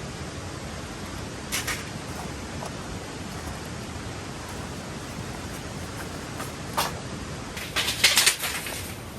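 Steady rushing background noise with a few short, sharp clicks and rustles: single ones about a second and a half in and near seven seconds, then a louder quick cluster about eight seconds in.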